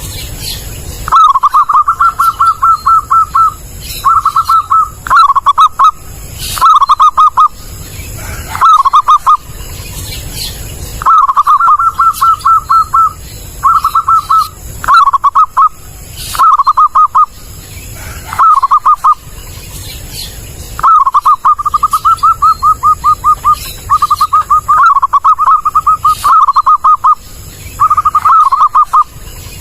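Zebra dove (perkutut) cooing loudly and clearly. It repeats phrases of quick staccato notes, each phrase half a second to about two seconds long, with short pauses between them.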